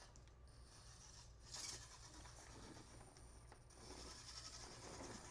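Faint rubbing and scraping of a scale RC crawler's tires and chassis working over obstacles, with a brief louder scrape about a second and a half in and a faint whir of its motor and gears from about four seconds in.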